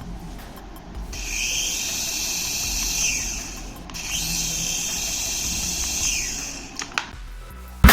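Small electric motor of a remote-control toy running in two high-pitched bursts of a few seconds each, each trailing off at its end, over a low rumble.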